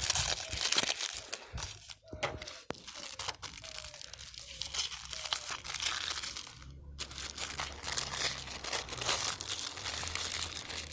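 Firecracker pack wrappers crinkling as they are handled, with brief pauses twice.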